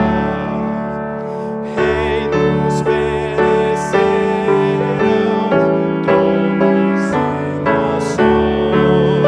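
Piano playing a slow hymn with voices singing along. A held chord gives way, about two seconds in, to chords struck about twice a second.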